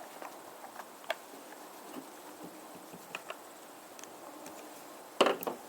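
Scattered faint clicks and light handling noises from working on a chainsaw's fuel and oil caps, with a louder clatter about five seconds in.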